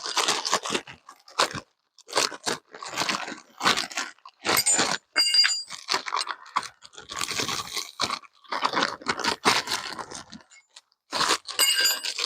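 Irregular crunching and rustling handling noise, as of parts being dug out of packaging, with brief metallic clinks about five seconds in and again near the end.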